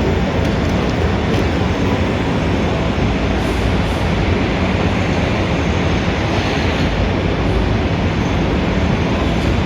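Steady, dense rumble of city street traffic.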